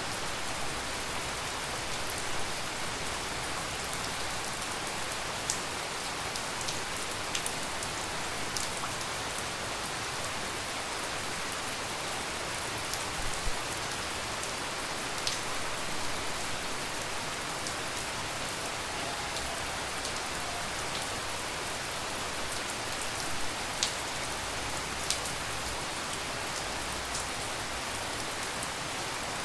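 Steady tropical rain falling, an even hiss, with scattered sharp taps of single drops striking close by.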